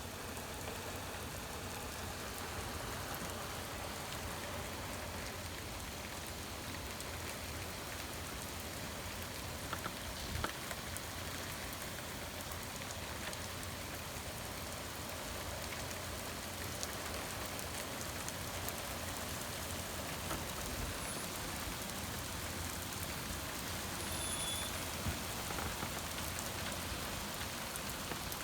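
Heavy thunderstorm rain pouring steadily, with a few sharp taps about ten seconds in.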